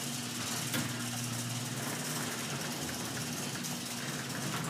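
Commercial garage door operator's electric motor running steadily with a constant low hum, raising a heavy sectional overhead door along its tracks.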